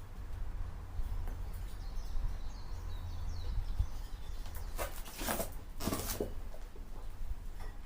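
Birds chirping faintly over a low rumble, with two short scraping noises about five and six seconds in.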